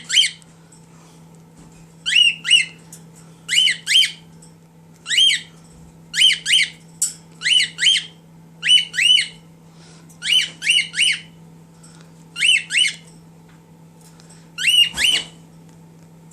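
A cockatiel giving short, sharply rising whistled chirps, mostly in pairs or threes, repeated about every second or so.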